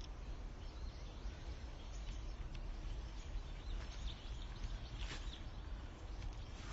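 Woodland ambience: faint, scattered bird chirps over a steady low rumble, with a brief rustle about five seconds in.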